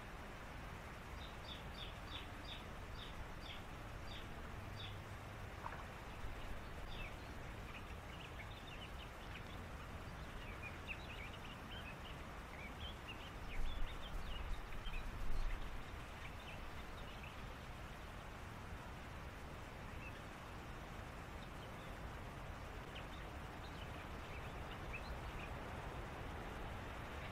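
Birds in a reed bed giving rapid series of short, high chirps over a steady background hiss, fading out for a stretch and returning faintly near the end. Partway through come a few brief low rumbles.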